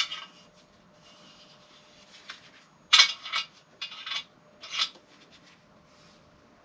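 Engine parts being handled by hand: a few short rubbing scrapes and light clinks, bunched about three to five seconds in.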